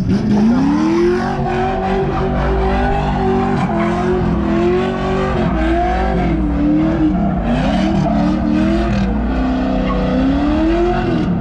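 Car engine revving hard: its pitch climbs steeply in the first second, then swings up and down again and again as the throttle is worked.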